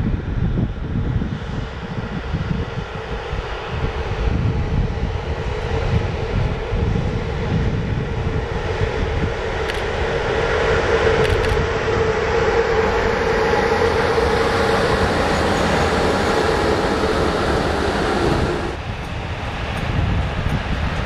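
Electric-hauled passenger train of double-deck coaches rolling slowly past under a speed restriction, with a continuous rumble of wheels on track and a steady mid-pitched hum that grows stronger about halfway through.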